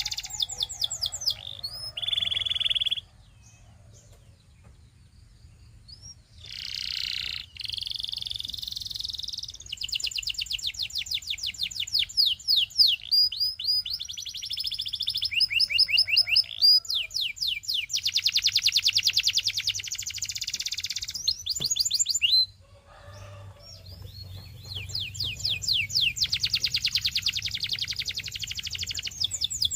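Domestic canary singing: long rolling trills of rapid repeated notes that switch between phrases, with short pauses between songs.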